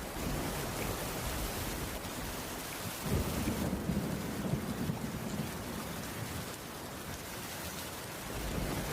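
Steady rain falling on a cabin's wooden roof, with a low rumble of thunder starting about three seconds in and fading away over the next few seconds.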